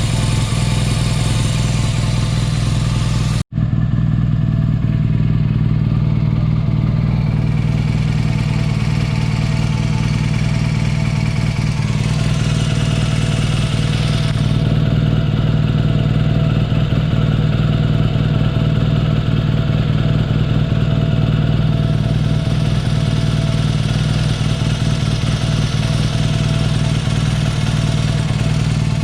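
BMW R nineT's air/oil-cooled boxer twin idling steadily, with a momentary dropout in the sound about three and a half seconds in.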